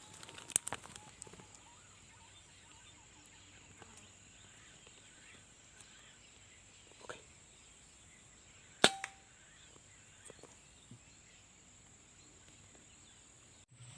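Two sharp, shot-like cracks, a smaller cluster of clicks about half a second in and a louder single crack with a brief ring about nine seconds in, over a steady high-pitched drone.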